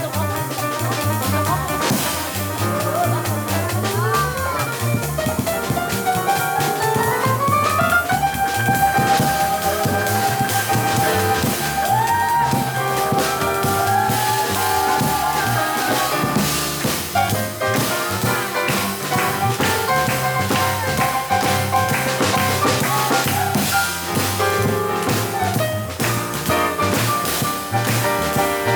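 Live jazz trio of piano, double bass and drum kit playing, with a melody line that slides steadily upward and then holds long high notes over busy drums.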